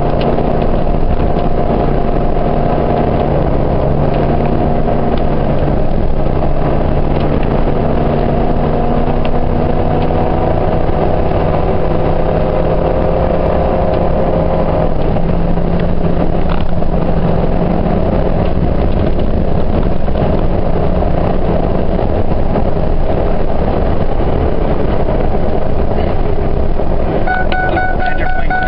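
2004 Ford F-150's 4.6-liter V8 running through a Thrush turbo muffler, heard from inside the cab with the back window open while climbing a steep hill. The engine note holds steady with a couple of small shifts in pitch. A steady high tone comes in near the end.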